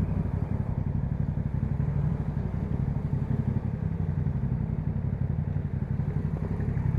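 Yamaha MT-07's 689 cc parallel-twin engine idling steadily through an Akrapovic exhaust with a dB killer fitted, a low, even pulsing note.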